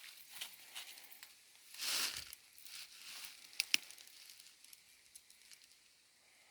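Rustling and crunching of dry leaf litter and brush, with one louder swish about two seconds in and a couple of sharp clicks a little later, then fading to faint rustle near the end.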